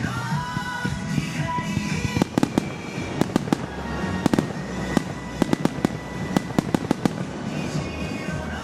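Fireworks bursting in a rapid series of sharp cracks, about twenty between two and seven seconds in, over music playing throughout.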